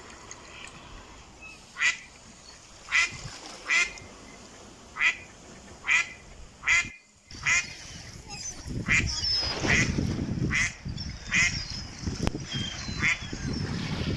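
Ducks quacking, a series of short single quacks coming about once a second. Partway through, a louder low rumbling noise rises beneath the calls.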